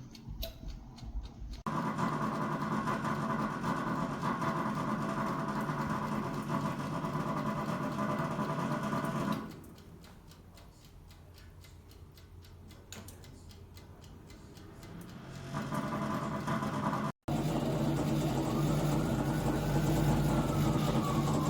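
Convection fan motor of a Black+Decker Crisp 'N Bake air-fry toaster oven running with a steady hum; it stops for several seconds in the middle and then starts again. Near the end a tone falls slowly in pitch over the hum.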